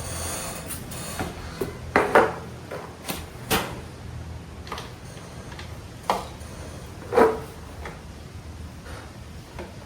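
Scattered metallic clinks and knocks of tools and parts being handled and set down, about eight separate hits with short ringing, the loudest about 2 seconds in and about 7 seconds in, over a steady low hum.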